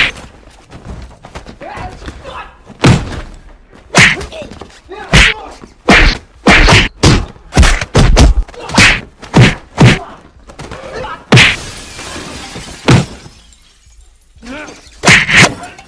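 A rapid string of dubbed-in punch and hit sound effects, sharp hits often less than a second apart, deliberately bad and out of keeping with the fight. About three-quarters of the way through a longer hiss lasts a second or so, then after a short lull two more hits land near the end.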